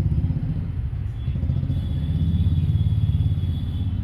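Suzuki Gixxer SF's single-cylinder engine idling, a rapid even low pulsing that dips slightly about a second in.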